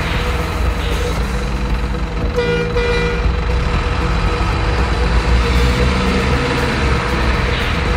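Truck engine sound running steadily at a low rumble, with one horn toot lasting just under a second about two and a half seconds in.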